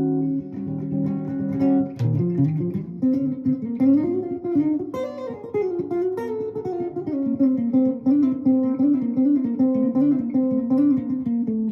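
Guitar playing: a held chord rings for about two seconds, then gives way to a quick run of single notes.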